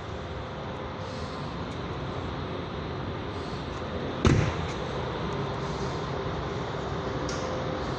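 Steady rumble of a vehicle, with one sharp thump about four seconds in.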